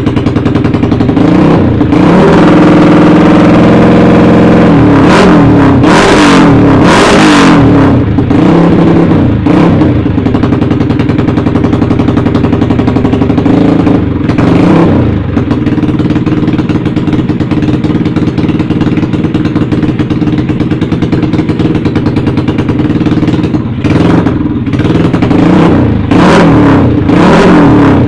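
Bored-up Yamaha Jupiter's single-cylinder four-stroke engine through a CLD Monster aftermarket exhaust, revved in repeated throttle blips that rise and fall, then running steadily for several seconds, with more blips near the end.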